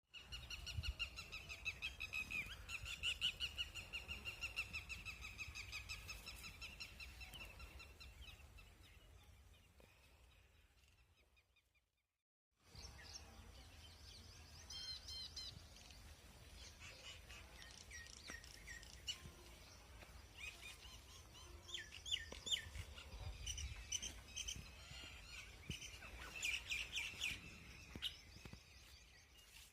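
Birds singing outdoors: a long, fast warbling song that fades away over about ten seconds, then, after a sudden break, a mix of short chirps and brief trills from several birds. A low rumble runs underneath.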